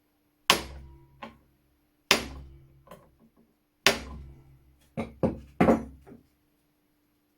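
Hammer striking a punch against a seized screw in a rusty flintlock shotgun: three heavy, ringing blows about a second and a half apart, then four quicker, lighter ones. The screw is not moving.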